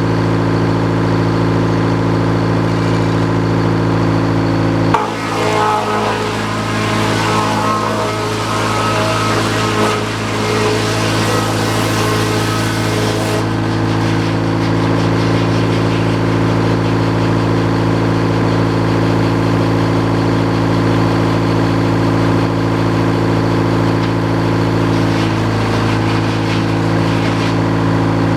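Sawmill engine running steadily. From about five seconds in to about thirteen seconds, a harsher, noisier stretch lies over it.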